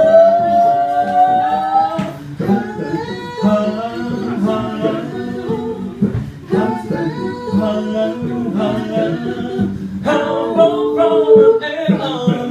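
An a cappella group singing without lyrics: several voices hold and move chords over a steady sung bass line, with short breaks between phrases.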